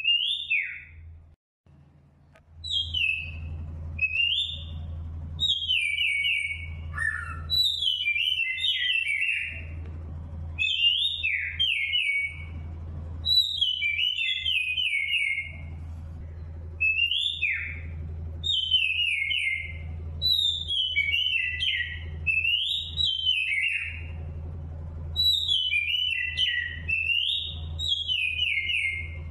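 A songbird singing short whistled phrases that glide and fall, repeated every second or two, over a steady low hum.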